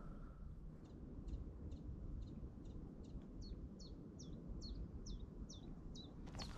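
A small songbird singing a long series of about fourteen short, high, repeated notes, a little over two a second, growing louder from about three seconds in.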